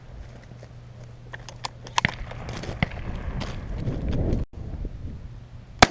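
Scattered clicks and knocks of handling and movement, then a single loud shotgun blast near the end.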